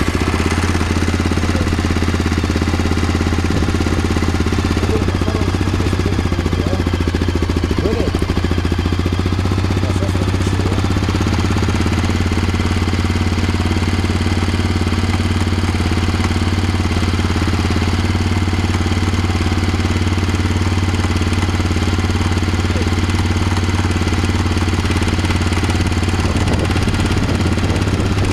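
Honda XR650L single-cylinder four-stroke engine idling steadily, with a knock in the engine that the owner is recording.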